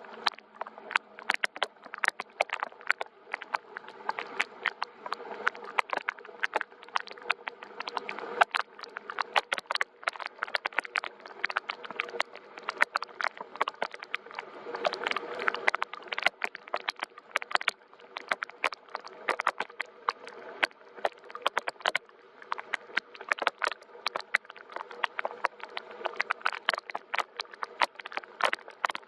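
Soft, steady rain, with a dense irregular patter of individual drops ticking sharply over a gentle hiss.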